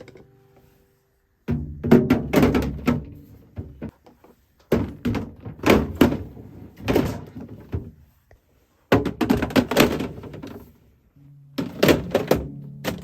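Clunks and knocks of storage containers being handled and set down in a refrigerator, in four bursts separated by short pauses. Background music comes in near the end.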